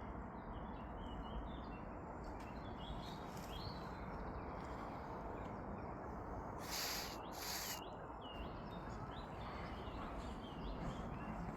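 Small birds chirping faintly over a steady low outdoor background rumble, with two brief rustling hisses about seven seconds in.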